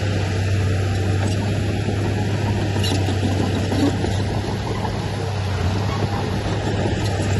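Heavy earth-moving machinery's diesel engine running steadily at an even pitch, with a faint tap about three seconds in.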